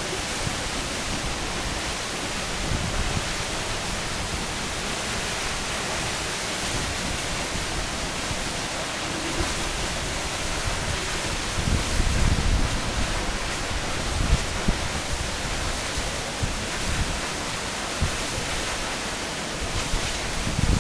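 Waterfall close by: a steady rush of falling water. Low buffeting rumbles of wind and spray on the microphone come about twelve seconds in, around fourteen seconds and again near the end.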